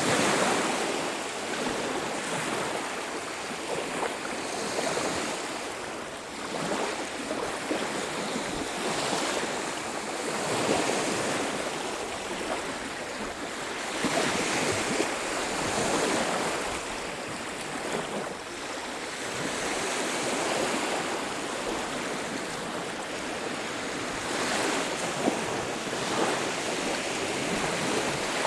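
Sea surf on a beach: waves breaking and washing in as a steady hiss that swells and eases every few seconds.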